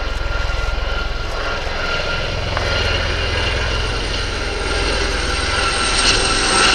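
Gazelle helicopters flying a formation display: a steady high turbine whine over a fast low rotor beat, growing a little louder toward the end.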